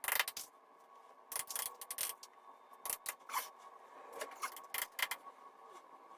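Hand-tool work: a string of irregular short scrapes and clicks, about a dozen, over a faint steady hum.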